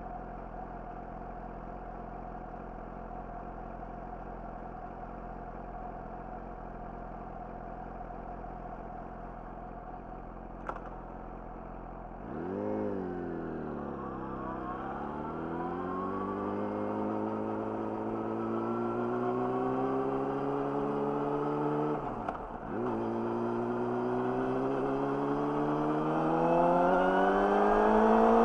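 Yamaha YZF-R6's inline-four through an Akrapovic slip-on exhaust idling steadily, with a single click shortly before it moves off. About twelve seconds in it pulls away, the engine note rising. The note drops briefly at a gear change about ten seconds later, then climbs again and grows louder.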